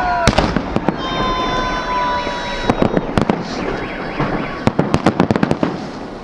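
Fireworks salute going off: a rapid run of bangs and crackles, densest in the second half. A high whistling tone holds for about two seconds, starting about a second in.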